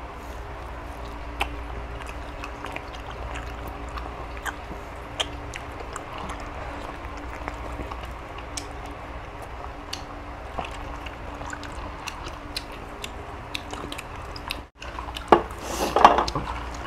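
People chewing and eating boiled chicken: scattered small smacks and clicks over a steady low hum. Near the end there is a brief dropout, then a few louder sharp clacks.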